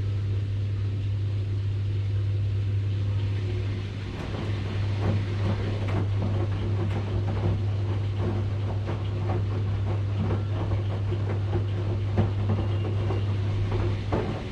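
Washing machine running: a steady low hum with irregular clicks and rattles, which grow denser from about four seconds in.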